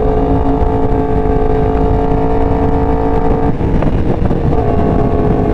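Sport bike engine running at a steady cruise, heard from the rider's helmet with heavy wind rush over the microphone. The engine note changes about three and a half seconds in, then settles again.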